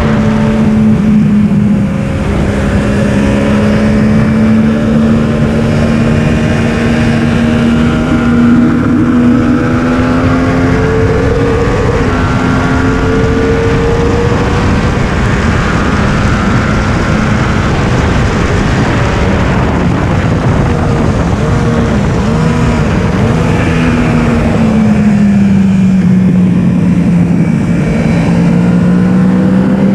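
Yamaha R1 inline-four sportbike engine running hard on track, its note held high and rising slowly through long pulls, then dipping and wavering about twenty seconds in before settling a little lower. Heavy wind rush underneath.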